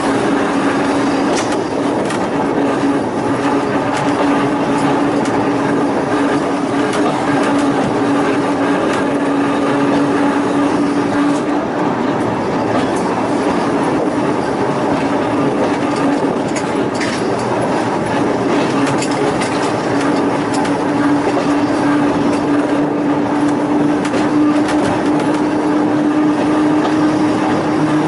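A Volk's Electric Railway car running along its narrow-gauge track: steady rumble of wheels on rails under a low electric hum. The hum fades out for several seconds in the middle and then comes back.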